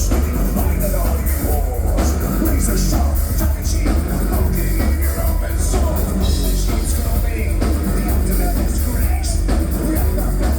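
Live industrial rock band playing loud through a club PA, with heavy distorted bass, electronic beats and drums. The sound is dense and steady, with a regular pulse of drum hits.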